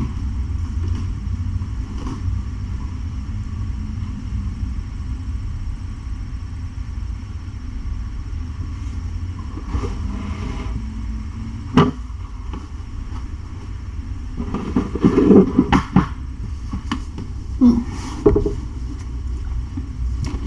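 Cat purring close to the microphone, a steady low pulsing rumble, with a sharp click a little before halfway and a stretch of louder rustling and soft knocks of handling a few seconds later.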